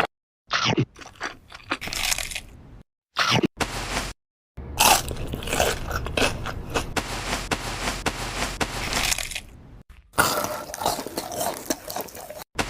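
Close-miked mukbang eating: crunchy bites and chewing, crackling and loud, in short segments with several abrupt cuts to silence between them.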